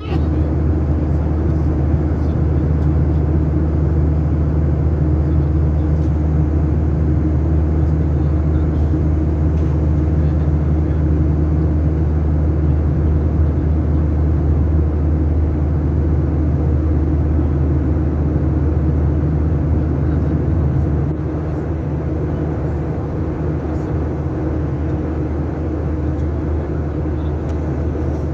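Steady low drone of an airliner's engines and airflow heard inside the passenger cabin in flight, getting a little quieter about 21 seconds in.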